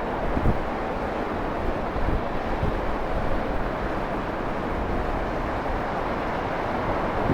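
Steady rushing noise with wind buffeting the microphone in uneven low rumbles.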